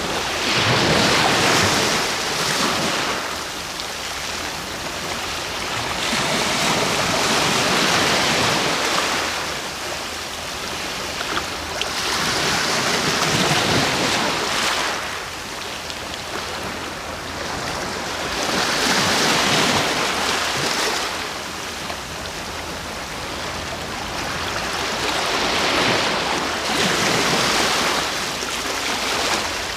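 Sea waves washing in, the surf swelling and falling away in slow surges about every six seconds, five in all.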